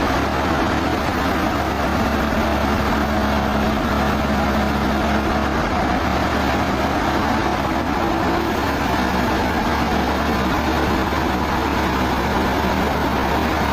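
Sawmill machinery running with a steady, unchanging drone.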